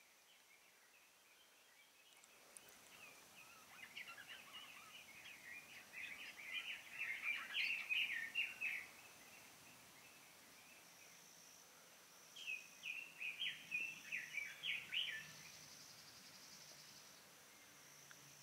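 A songbird singing two bursts of rapid short high notes: the first builds for several seconds and ends about nine seconds in, and the second runs for about three seconds in the second half.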